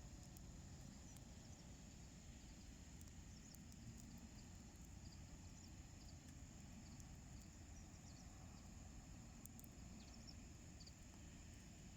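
Near silence: faint outdoor ambience with a low rumble and a few faint, scattered crackles from a small wood fire burning in a homemade wood stove.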